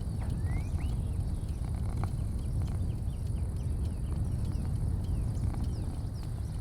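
A steady low rumble, with small birds chirping over it: a few short rising whistles in the first second, then a quick run of short chirps in the middle.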